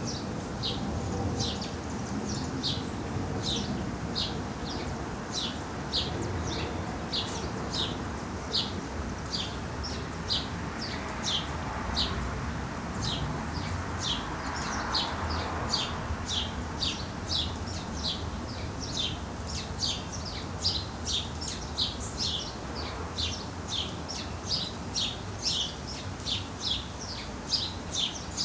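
A bird repeating short, high chirps, about two a second, on and on without a break, over a steady low background rumble.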